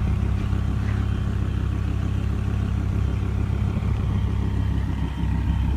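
An engine idling steadily, a low even hum that shifts slightly about five seconds in.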